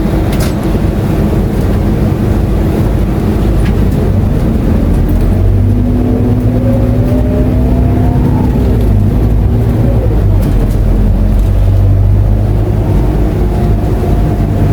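Scania K230UB bus's diesel engine heard from on board while under way. The engine note climbs steadily from about four seconds in, drops sharply at about eight and a half seconds as the gearbox changes up, and starts rising again near the end.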